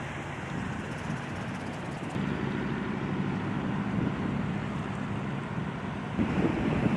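Vehicle engine noise with wind on the microphone: a steady low hum that comes in about two seconds in and gets louder near the end.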